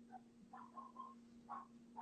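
Near silence: a faint steady hum with a few faint, short sounds.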